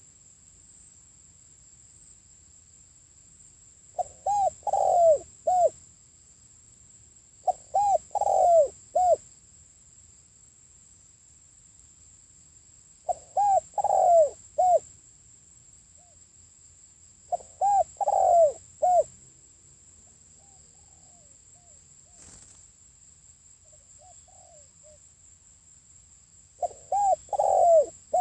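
Spotted dove (cu gáy) cooing: five loud phrases of three or four notes, each about a second and a half long, spaced several seconds apart. Fainter, shorter coos come between the fourth and fifth phrases. This is the territorial song a decoy bird uses to provoke wild doves.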